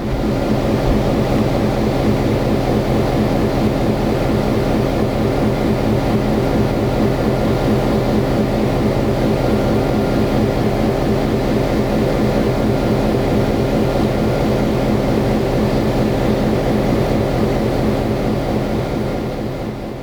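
Diesel locomotive engine running with a steady drone, fading out near the end.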